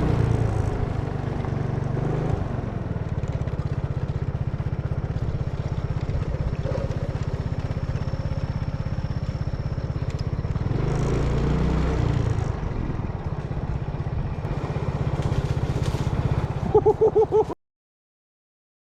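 A steady low motor-like rumble with a fast, even pulse, and a few short pitched sounds near the end before the sound cuts off abruptly to silence.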